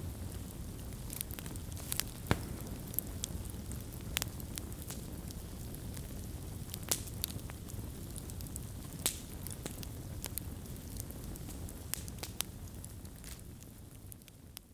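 Wood fire burning: a steady low rumble with scattered sharp crackles and pops, a few of them louder. The sound fades down near the end.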